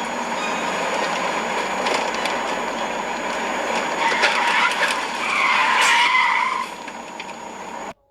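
Car tyres squealing in a skid for a couple of seconds, about halfway through, over steady road-traffic noise.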